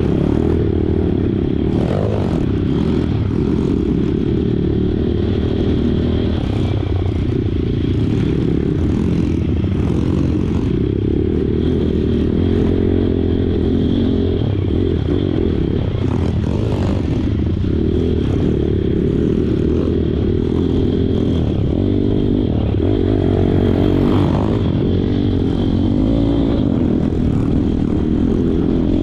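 Small single-cylinder pitbike engine running steadily under load while riding off-road, with scattered clatter from the bike over rough ground.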